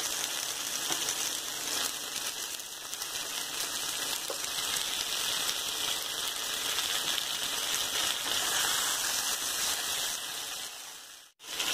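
Oil sizzling in a frying pan as fried eggplant slices are added to spiced onions and tomatoes: a steady hiss that cuts out suddenly near the end.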